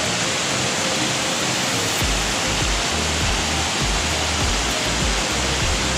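Waterfall rushing with a steady, dense roar of falling water. From about two seconds in there is an uneven low rumble underneath.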